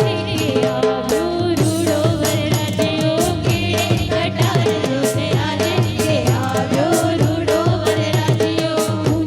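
Gujarati lagan geet, a wedding folk song: a sung melody over a held drone, with a steady drum beat.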